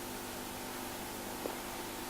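Faint steady hum of several low tones over a hiss, with one soft click about one and a half seconds in; the listener wonders whether the hum is a generator.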